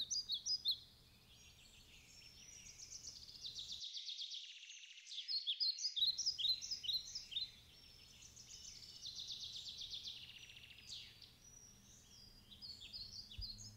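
Songbirds chirping and trilling: quick high calls and rapid trills in overlapping spells with short pauses, loudest about a third of the way through.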